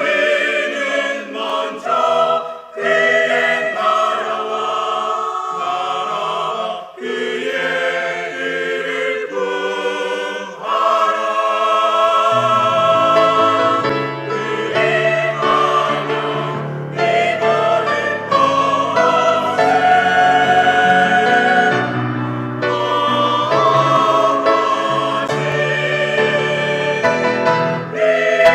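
Church choir singing a sacred anthem, the music growing fuller with lower-pitched sound coming in about twelve seconds in.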